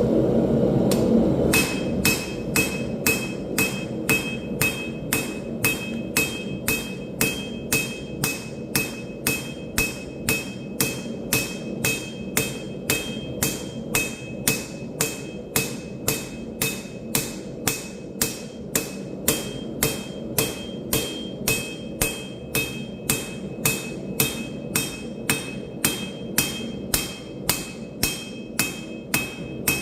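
Hand hammer forging steel on an anvil: steady blows about two a second, each with a high, ringing anvil ping, starting about a second and a half in.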